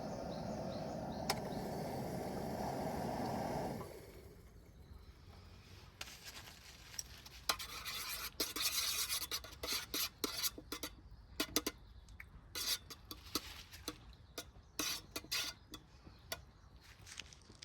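A steady rushing noise cuts off about four seconds in. It is followed by scattered light clinks and scrapes of utensils against cookware or dishes, busiest in the second half.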